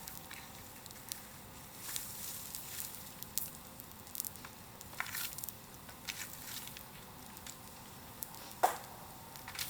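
Bonfire burning, with a low hiss and irregular crackles and pops, one louder pop near the end.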